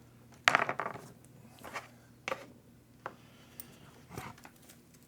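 Small hard parts and tools being handled and set down: a sharp clatter about half a second in, then a few lighter clicks and knocks.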